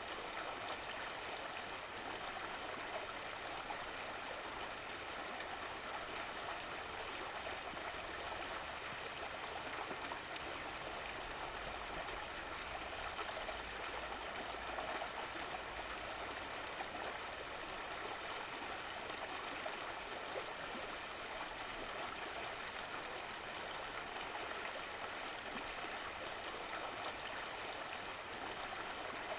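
Running water of a stream, flowing steadily with an even rushing and trickling hiss.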